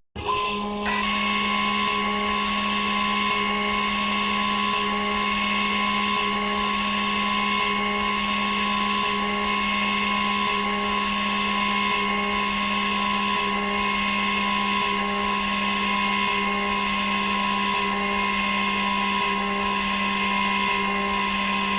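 CNC machine starts up abruptly and runs with a steady, high motor whine, with a faint tick about every second and a half.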